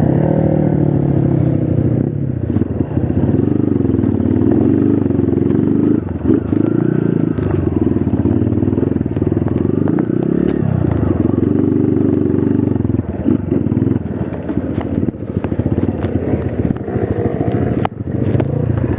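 Trail motorcycle engine running under load, its revs rising and falling continually as the throttle is worked over rough ground, with occasional sharp clicks and clatter.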